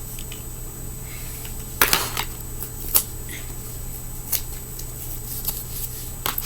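Short scratchy clicks and scrapes of foam grip tape being picked and peeled off a fingerboard deck by hand, the loudest cluster about two seconds in.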